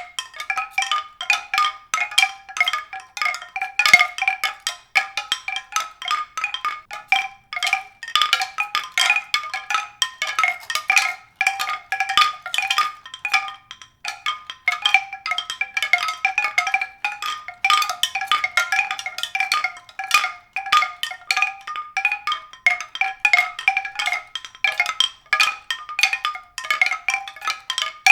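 Pitched percussion: a continuous stream of quick, bright struck notes, several a second, ringing briefly.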